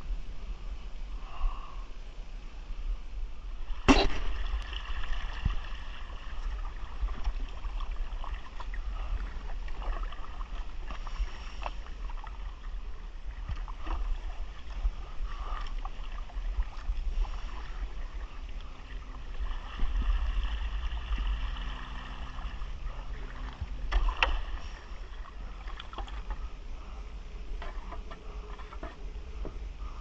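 Kayak paddling: the paddle dips and water splashes and drips, over a steady low rumble. There is a sharp knock about four seconds in and another about three-quarters of the way through.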